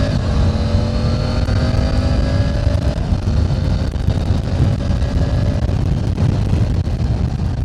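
Triumph Tiger 900 GT Pro's three-cylinder engine accelerating hard through the gears, its note climbing, dropping at a shift about as the sound begins and again about three seconds in, then climbing more slowly, under a loud low rush of wind and road noise.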